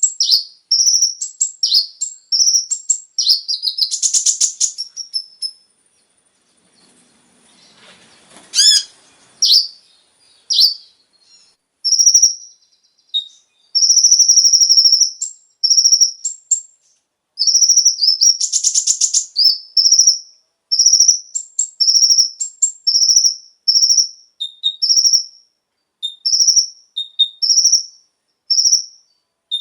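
Kolibri ninja (konin) sunbird singing: rapid runs of short, high chirps and trills. The song pauses for a few seconds about a quarter of the way in, with only a few sweeping notes, then starts again densely.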